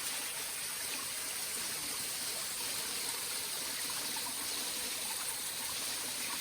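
Waterfall pouring steadily, with water falling from the top and coming out of a hole partway down, making an even rushing hiss.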